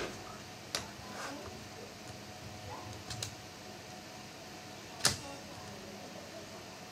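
A few sharp clicks and taps of a laptop's plastic case and parts being handled: a quick double click about three seconds in and the loudest click about five seconds in.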